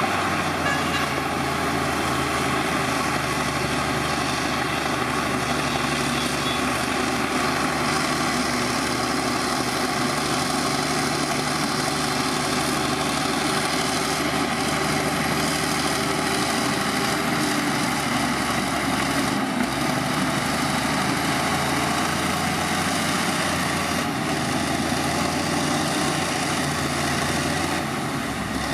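Diesel engine of heavy earthmoving machinery running steadily at an even speed.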